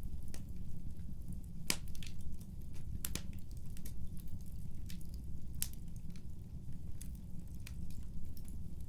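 Wood fire burning in a fireplace: a steady low rumble with irregular sharp crackles and pops, the loudest about two, three and five and a half seconds in.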